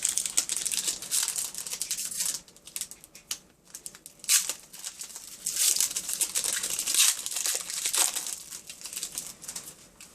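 A sealed trading-card pack wrapper being torn open and crinkled by hand, an irregular run of crackling with sharper rips about 4, 6 and 8 seconds in, dying away near the end.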